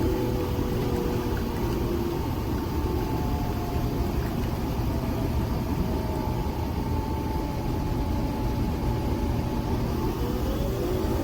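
Nespresso Vertuo Next coffee machine brewing: the capsule spinning in its centrifuge with the pump running, a steady mechanical whir. Faint tones in it drift slowly in pitch and climb near the end.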